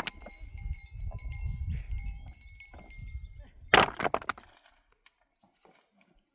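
A sheep bleats once, loud and short, about four seconds in, after a low rumble; near silence follows.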